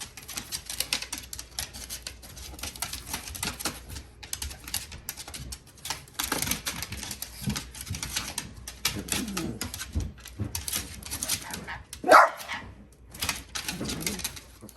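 Rapid, irregular clicking and tapping, with a dog's low vocal sounds and one loud, short bark near the end.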